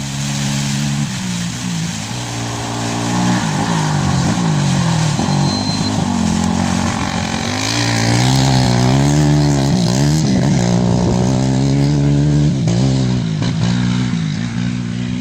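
Engine of a racing off-road rally vehicle running hard. Its pitch rises and drops several times with throttle and gear changes, and it grows loudest about halfway through as it comes closest.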